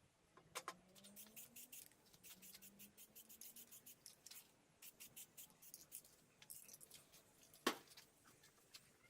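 Faint, scattered small clicks and light scratching from the meat grinder's parts being handled, with one sharper click about three-quarters of the way through.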